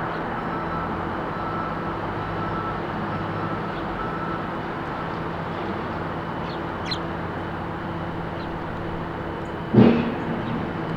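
Steady rumble of road traffic, with a vehicle engine's low hum running through it. A few short bird chirps sound about seven seconds in, and a sudden loud thump comes near the end.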